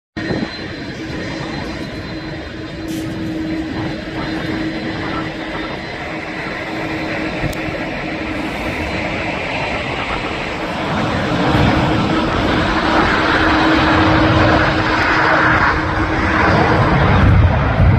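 Boeing 787 Dreamliner's jet engines, a continuous rushing noise with a steady low hum in it, growing louder as the airliner draws nearer.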